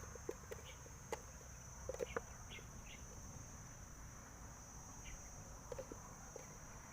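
Insects trilling in one steady high-pitched drone, with scattered faint ticks and chirps.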